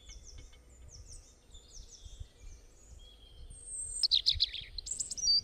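Birds chirping: a run of short, high, falling chirps, with a louder burst of calls about four seconds in, over a faint outdoor background hum.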